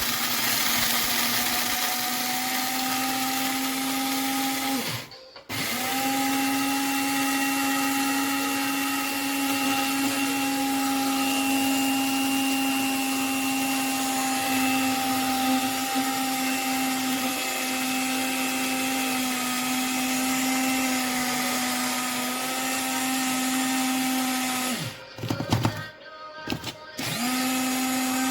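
Amazon Basics electric blade coffee grinder's motor running with a steady hum. It cuts out briefly about five seconds in, then near the end it is pulsed on and off a few times before running steadily again.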